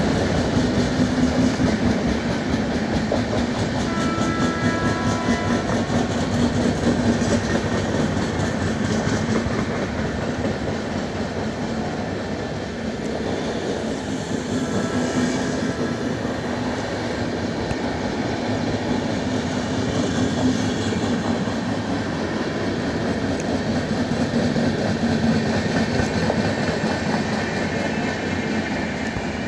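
Indian express passenger train coaches running past at speed: a continuous rumble with the rapid clickety-clack of wheels over the rail joints. A few brief high tones come through about four seconds in.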